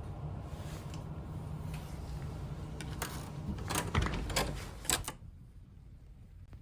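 A quick series of sharp clicks and knocks over a low outdoor rumble, after which the rumble drops away abruptly to a quiet hush.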